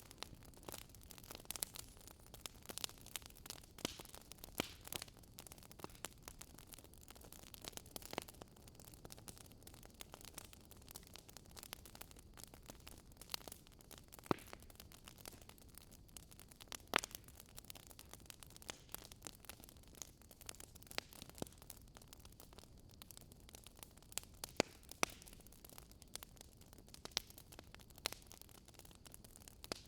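Wood fire crackling in a fireplace: a soft steady hiss with irregular pops and snaps, a few sharper ones standing out.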